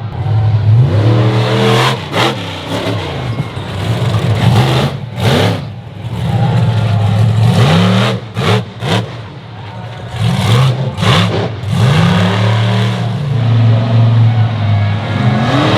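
Monster truck engine revving hard and dropping back again and again, its pitch sweeping up and down many times, with several short sharp cracks along the way.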